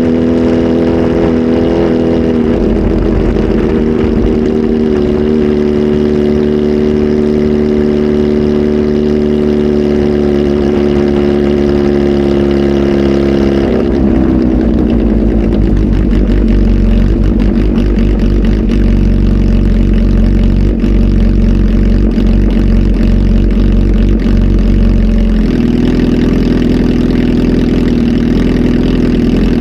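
Kawasaki Z H2 SE's supercharged inline-four, flash-tuned and fitted with a full exhaust system, running loud at held revs. The pitch steps down slightly a few seconds in, drops lower about halfway through, and climbs back up near the end.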